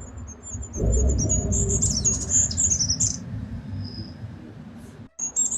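Goldcrest calling: a run of very high, thin notes, busiest between about one and three seconds in, over a low rumbling noise.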